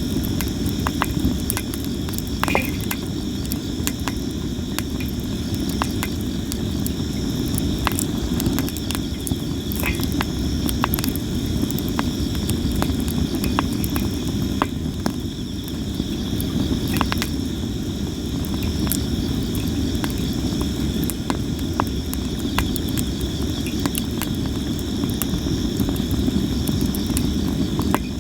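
Sawara cypress wood burning in a campfire, crackling with frequent sharp pops scattered irregularly, over a steady low rumble. Insects trill steadily and high-pitched throughout.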